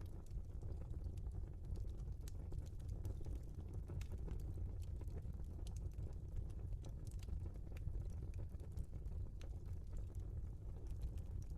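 Wood logs burning in a fireplace: a steady low rumble of the flames with irregular, sharp crackles and pops scattered throughout.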